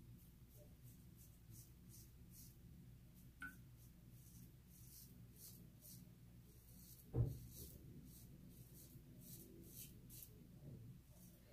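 Faint scratchy strokes of a kamisori shavette blade scraping through lathered stubble, about two strokes a second. A single low thump comes about seven seconds in.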